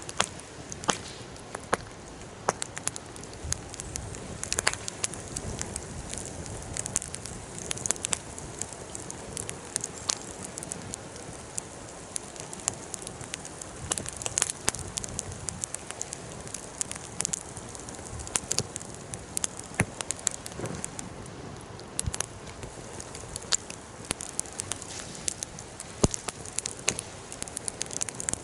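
Wood fire crackling and popping: irregular sharp snaps over a faint steady hiss, a few pops louder than the rest.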